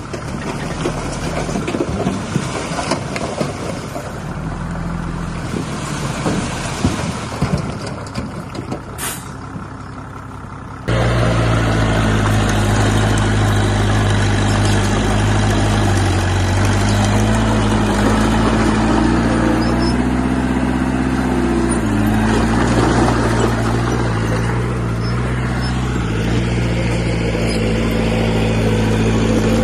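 Heavy diesel construction machinery at work: for about ten seconds a rough clatter with many knocks and a short hiss, then an abrupt switch to a steady running diesel engine whose pitch rises and falls slightly around the middle of that stretch.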